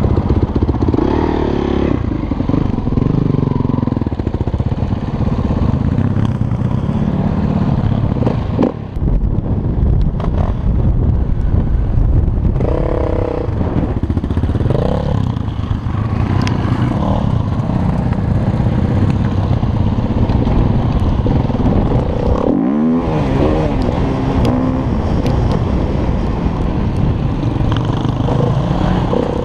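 Dirt bike engine running hard as it is ridden over rough dirt, the revs rising and falling continuously, with a sharp rev up and back down about three-quarters of the way through.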